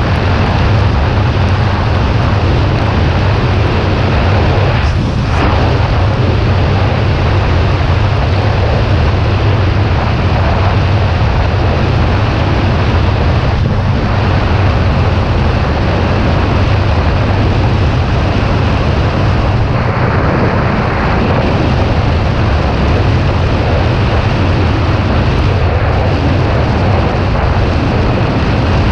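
Heavy, steady wind noise on the microphone of a Kawasaki Ninja 400 riding at speed, with its parallel-twin engine running underneath.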